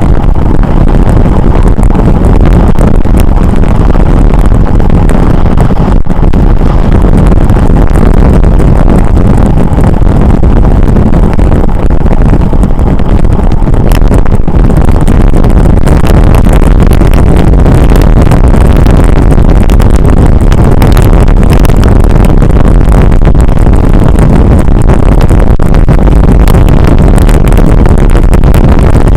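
Loud, steady wind rumble buffeting the microphone of a camera riding along on a moving bicycle.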